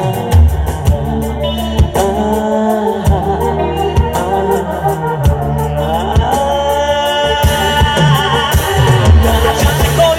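Live band music for a Bollywood song mashup, with a steady drum beat, a strong bass line and sustained melody lines.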